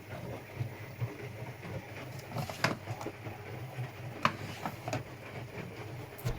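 Washing machine running through a wash cycle: a steady low hum from the turning drum, with a few sharp clicks.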